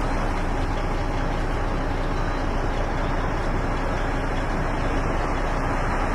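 Heavy vehicle engine idling steadily: a constant low rumble with a hiss over it.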